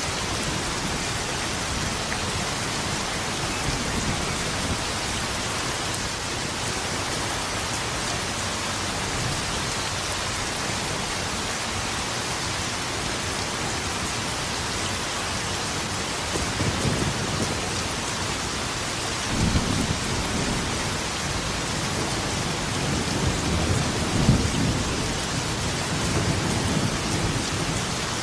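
Steady heavy rain, with thunder rumbling low in the second half: a first roll about two-thirds of the way in, then a longer rumble peaking shortly after.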